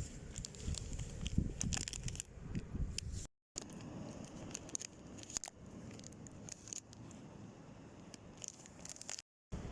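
Small clicks, light clinks and scrapes of hand-handled gear, over a low wind rumble on the microphone. The sound drops out abruptly twice at edit cuts.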